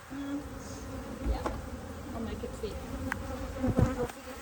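Honeybees buzzing around an opened top bar hive, single bees passing close with a wavering pitch, and two short knocks, about a second and a half and near four seconds in.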